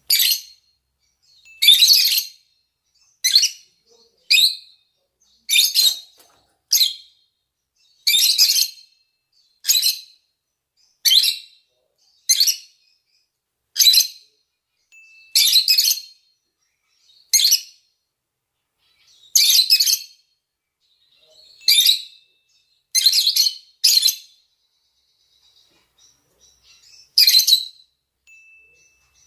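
Lovebirds giving short, shrill, harsh calls, about one a second, with a pause near the end. These are the mating calls of male and female rosy-faced and Fischer's lovebirds.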